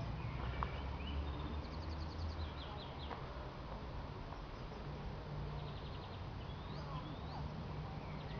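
Small songbirds chirping and trilling, with short rapid trills about two seconds in and again about six seconds in, and quick rising chirps after them, over a steady low background rumble.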